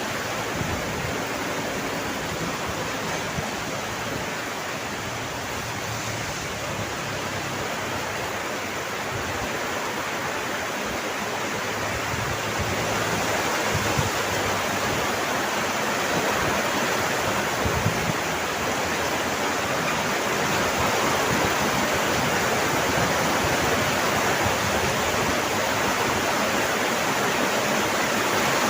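Steady heavy rain, a dense even hiss of falling water that grows slightly louder about halfway through.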